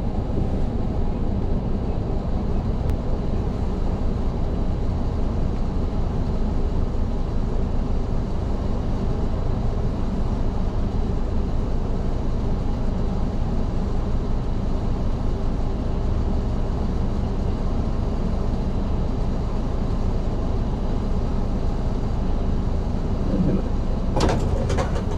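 Four-cylinder diesel engine of an Isuzu Erga city bus running steadily, heard from inside at the front of the bus. Near the end there are a few short, sharp clicks and hisses.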